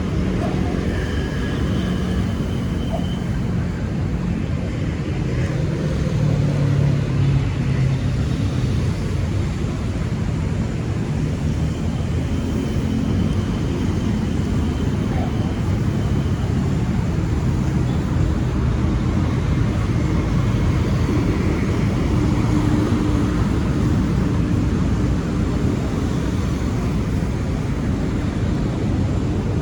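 City street traffic: a steady rumble of passing cars and motorbikes, with engine hums rising and falling as vehicles go by.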